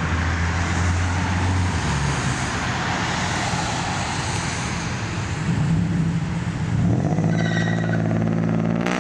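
Car engines running, with a low steady drone; about seven seconds in, one engine revs up, its pitch rising.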